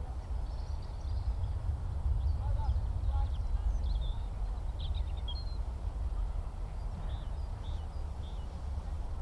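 Scattered short bird chirps and calls over a steady low rumble in an open rural field.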